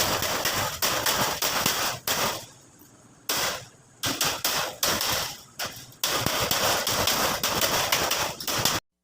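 Rapid, dense banging strikes with two short pauses, about two and a half seconds in and again near four seconds, cutting off suddenly just before the end.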